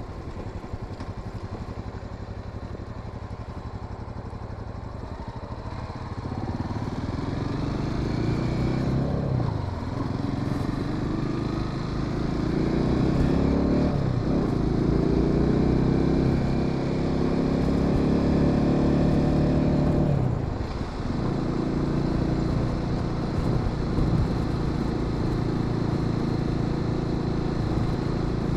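Honda Sahara 300 single-cylinder motorcycle engine running at a low, even pace, then pulling harder from about six seconds in. Its pitch climbs through the gears, with three brief drops at the shifts, before it settles into a steady cruise.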